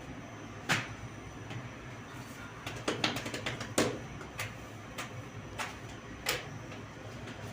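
Scattered sharp knocks and clatters of hard objects, with a quick run of taps about three seconds in, over a steady low hum.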